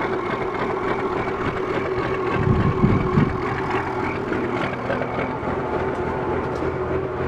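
Oliver tractor's Waukesha engine running steadily, still warming up after a cold start, with a brief louder, rougher surge about two and a half seconds in.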